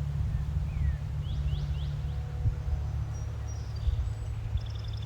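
Small birds chirping: a few quick rising chirps about a second and a half in and a rapid trill near the end, over a steady low rumble.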